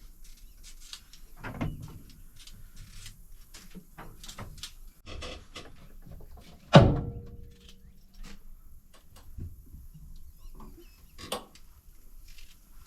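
Hand potato peeler scraping peel off red potatoes in quick irregular strokes, with a sharp knock about seven seconds in that rings briefly and is the loudest sound.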